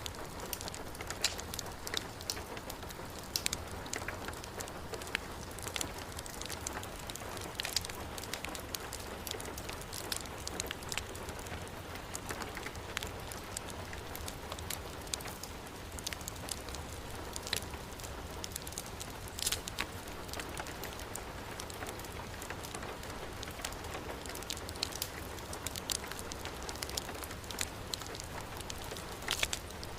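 Heavy rain falling steadily, mixed with a crackling wood fire: frequent sharp pops and snaps over the even hiss of the rain, with a steady low rumble underneath.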